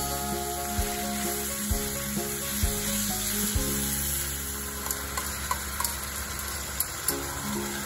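Carrot and king oyster mushroom strips sizzling steadily as they are stir-fried in an electric pot, with a few light clicks of the stirring utensil against the pot.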